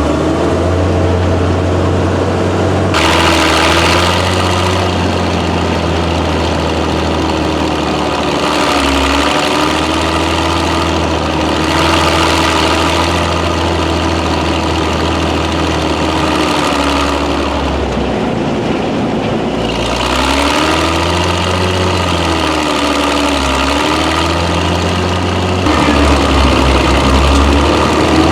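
Hetzer tank destroyer's Praga straight-six petrol engine under way, revs rising and falling through the pre-selector gear changes, with the tank's running noise on top.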